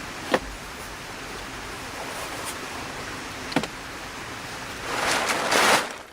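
Steady rushing noise, with two sharp knocks and a louder rustling swell near the end that stops abruptly.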